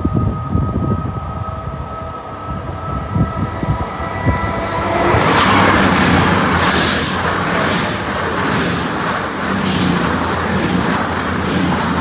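CrossCountry passenger train approaching and then passing close by at speed. For the first few seconds there are wind gusts on the microphone and a few steady high tones; about five seconds in a loud rushing noise takes over, with a short high hiss about once a second as the coaches go by.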